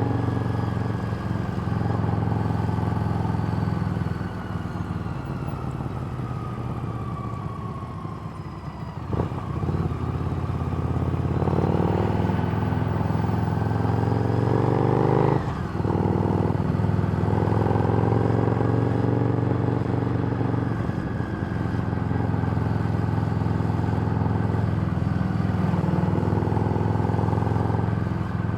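Harley-Davidson Street Rod's V-twin running through a Screamin' Eagle exhaust while riding. The engine eases off a few seconds in with a falling note, picks back up, and has two brief breaks in its note before settling into a steady cruise.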